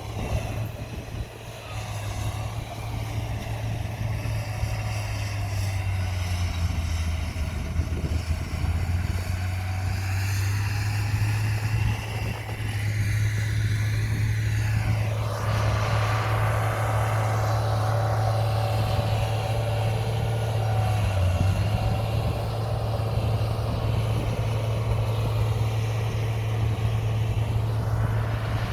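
Heavy diesel earthmoving machinery running in a steady low drone. From about halfway a higher whine joins in over the engine.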